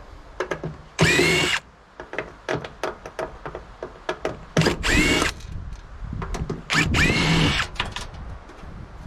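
Handheld power drill/driver run in three short bursts, its motor whine rising as each burst starts, with many small clicks and knocks of handling between the runs.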